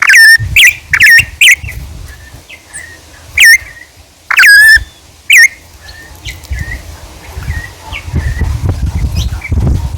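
Birds calling close by: a run of loud, sharp calls, each dropping quickly in pitch, about seven in the first five and a half seconds, then fainter scattered chirps.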